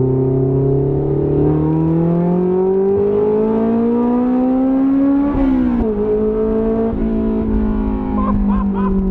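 Honda S2000's four-cylinder engine through an open header, very loud, pulling up in pitch for about five seconds, then dropping sharply on an upshift and running on at a steadier, slowly falling pitch.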